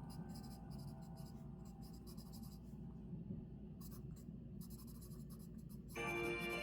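Handwriting on paper: short, irregular scratching strokes of a pen tip on the page. Background music comes back in about six seconds in.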